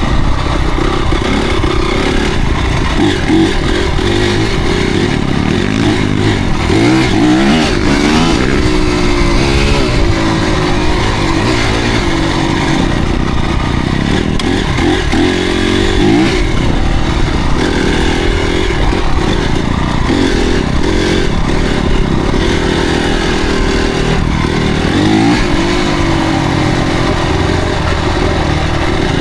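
Motocross bike engine running hard, its pitch rising and falling again and again as the throttle is opened and closed.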